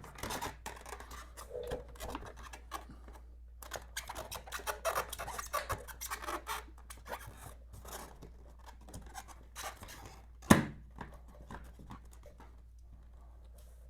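The Honda Gold Wing's cover being handled and fitted back into place: a run of small clicks, rattles and scrapes, then one sharp knock about ten and a half seconds in.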